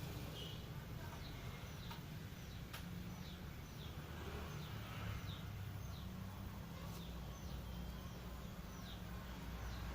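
A small bird chirping repeatedly, short high notes sliding downward about twice a second, over a steady low rumble.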